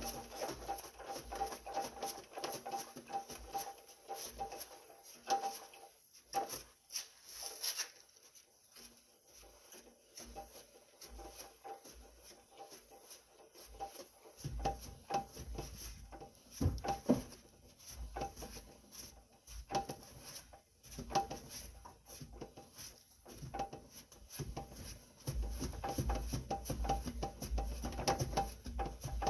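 Rapid, repeating ticking and rubbing from the transaxle area of a 2011 Toyota Prius as a raised front wheel is turned by hand. The noise appears when the wheel is turned against slight resistance, heard only with the front lifted, two days after a transmission fluid change. Stretches of low rumbling come in partway through and near the end.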